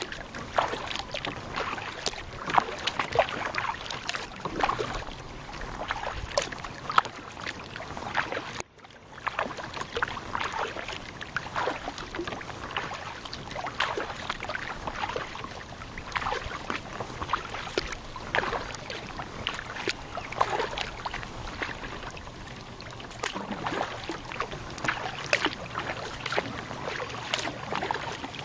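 Kayak paddle strokes: the blades dipping and pulling through the water with irregular splashing and dripping. The sound cuts out briefly about nine seconds in.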